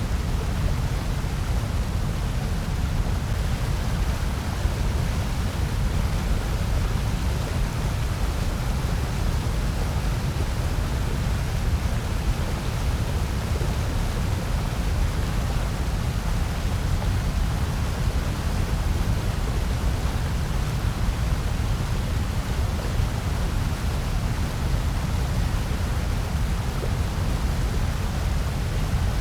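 Steady generated noise of the kind sold as white noise for sleep and focus: an even, unbroken hiss that never changes, heaviest in a deep low rumble with a lighter hiss across the higher range.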